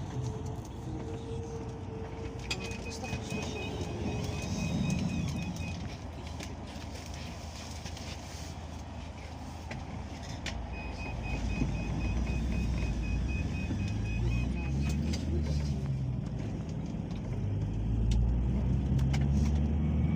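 Cabin sound of a Peugeot Boxer minibus on the move: engine and road rumble, with the engine note growing louder about halfway through and again near the end as it pulls harder. Twice a run of short, rapid high beeps sounds for a few seconds, and there are scattered rattles and clicks.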